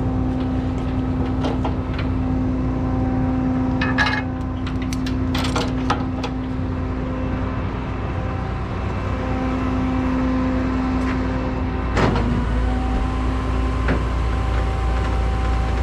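Truck engine idling steadily, with a few short clanks and knocks over it, the sharpest about 12 seconds in.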